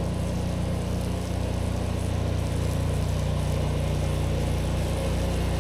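Pressure washer's engine-driven pump running steadily, a constant low drone, with the hiss of water spraying.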